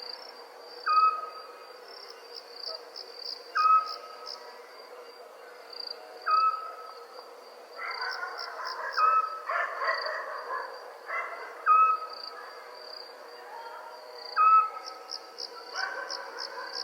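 An owl gives a short whistled call about every three seconds, six times in all, over crickets chirping in quick pulsing trains. A stretch of rougher noise comes about eight seconds in.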